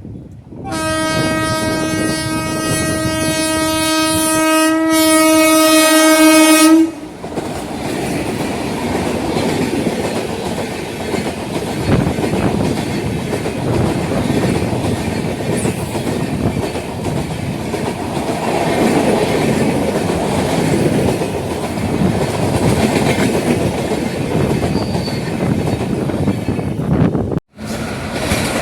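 Locomotive horn of a passenger train sounding one long steady blast for about six seconds, then the steady rumble and wheel clatter of the train running past. The sound breaks off suddenly near the end.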